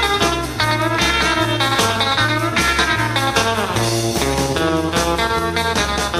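Rockabilly band playing an instrumental break: electric guitar lead with bent notes over a steady walking bass line and drums.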